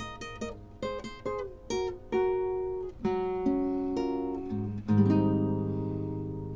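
Nylon-string acoustic guitar closing the song alone: a run of single plucked notes, then a final chord struck about five seconds in that rings and slowly fades.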